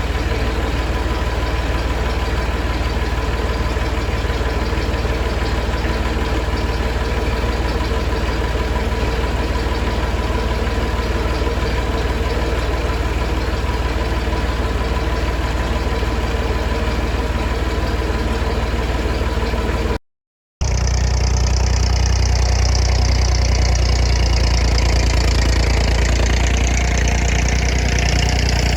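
Massey Ferguson 50X tractor's diesel engine running steadily at idle. After a short break about two-thirds of the way in, the engine sounds heavier, with a high hissing whine over it.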